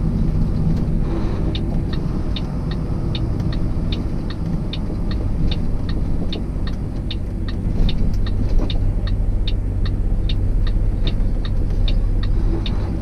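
Steady truck engine and road rumble heard inside the cab, with the turn signal ticking evenly, about two to three ticks a second, starting a second or so in.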